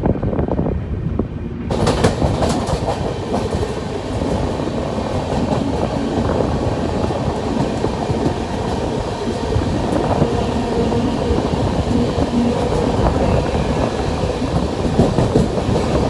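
Moving Garib Rath Express coach: a steady rumble of wheels on rail with clickety-clack over the rail joints. The sound turns suddenly brighter about two seconds in.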